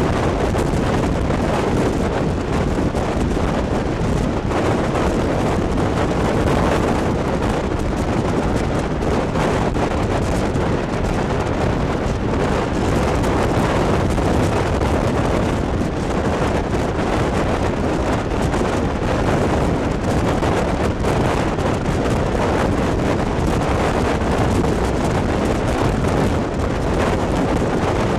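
Steady rush of wind buffeting the microphone held out of a moving passenger train's window, mixed with the train's running noise along the track.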